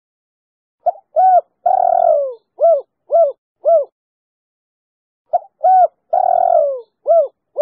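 Female spotted dove (tekukur) cooing its 'kuk 3' call twice: each phrase is two short coos, a long coo that falls in pitch, then three short even coos.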